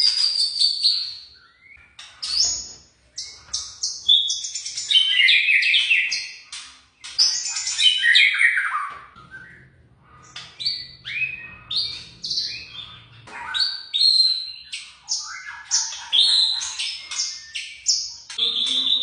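A young white-rumped shama (murai batu) singing: a long run of varied clear whistled phrases, quick rising and falling notes in rapid bursts, with short pauses between them.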